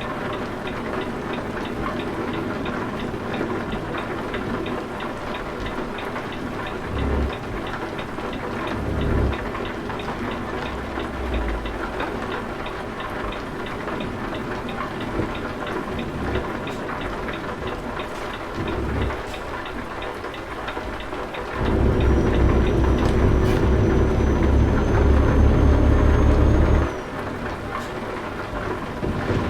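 Steady rain with a low truck engine rumble underneath that swells several times. It is loudest for about five seconds near the end, with a steady hum and a faint high whistle, before dropping back.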